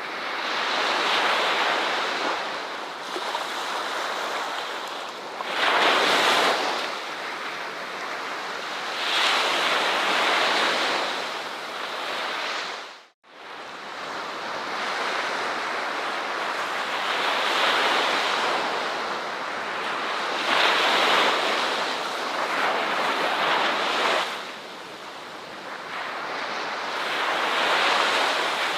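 Ocean waves breaking and washing on a shore, swelling and easing every few seconds. About halfway through the sound drops out abruptly to silence for a split second and then returns.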